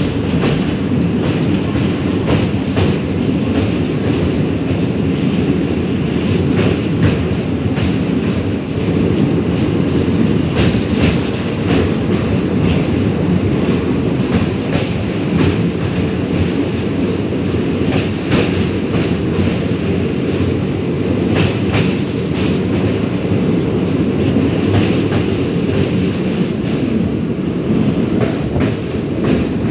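Passenger train rumbling across a steel truss bridge, with the coach's wheels clattering irregularly over the rails under a loud, steady low rumble.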